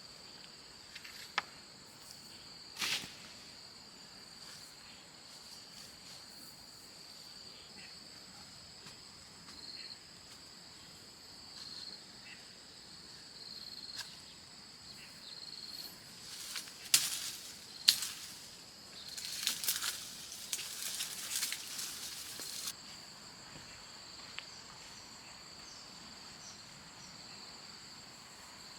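Insects trilling steadily at a high pitch. There are a few sharp clicks and knocks, and a few seconds of rustling and clattering about two-thirds of the way in.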